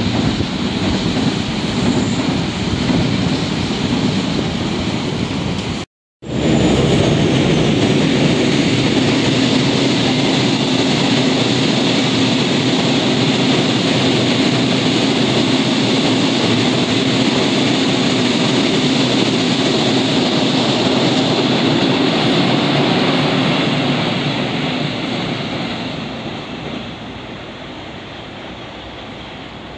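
A train passing close by on the rails: a loud, steady rumble and rail noise. It cuts out abruptly for a moment about six seconds in, comes back just as loud, and fades away over the last few seconds as the train recedes.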